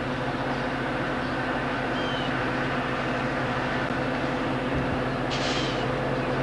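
Distant approaching train, heard as a steady rumble and hiss that grows slowly louder, with a steady hum underneath. A brief hiss comes a little after five seconds.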